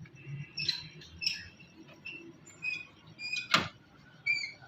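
Background workshop noise of scattered light clicks and brief high chirps, with one sharp knock about three and a half seconds in.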